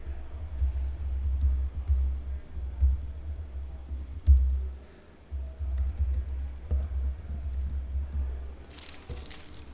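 Computer keyboard typing and clicking over background music with a heavy, pulsing bass. A short rustle comes near the end.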